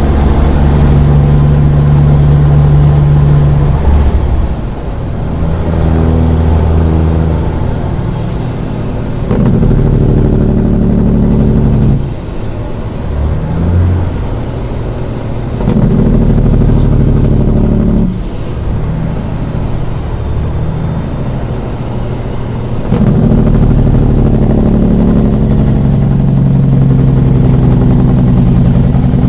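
Semi truck's diesel engine running under load, its note and a high turbo whistle rising and falling in four loud pulls, with the engine dropping back three times in between.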